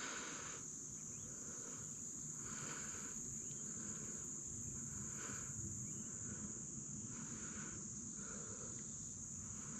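Faint insect chorus: a steady high-pitched drone with soft chirps repeating a little faster than once a second.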